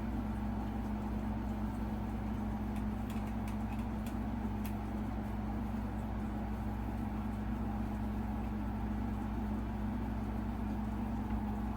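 Steady low background hum with an even tone, unchanging throughout, and a few faint light clicks about three to five seconds in.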